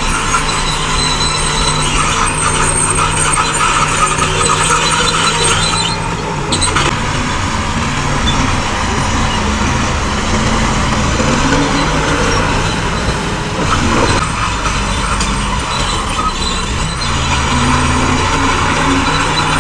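Heavy diesel earthmoving machinery, a bulldozer and dump trucks, running under load, with engine pitch rising and falling as they work. A thin, high metallic squeal runs over the engines, and there is a single knock about fourteen seconds in.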